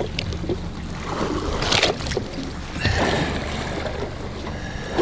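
Water slapping against a small boat's hull with a steady wind rumble on the microphone, and two short splashes about two and three seconds in.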